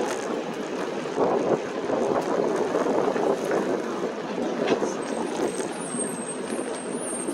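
Wind rushing over a phone microphone on a moving e-bike, mixed with passing road traffic. A thin high whistle comes in about five seconds in.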